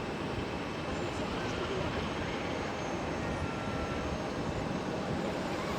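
Steady airport ambience: an even, rumbling background noise with no distinct events.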